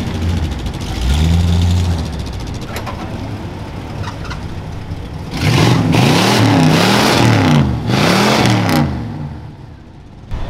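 A car engine is revved hard several times in quick succession, its pitch rising and falling with each blip, after a steadier low engine rumble. The revving dies away near the end.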